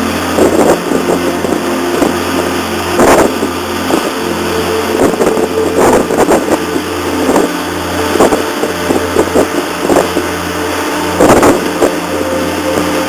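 Car-ferry's diesel engines droning steadily in a low hum with a stack of steady tones, while the ferry berths. Irregular louder rushes of noise come and go over it, the strongest about three, six, ten and eleven seconds in.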